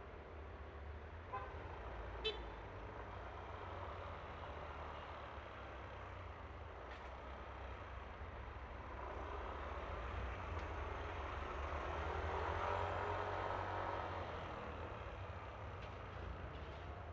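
Riding noise from a Yamaha Aerox scooter underway: steady low wind and road rumble with the engine running, swelling louder for a few seconds past the middle. A short toot and a sharp click come about two seconds in.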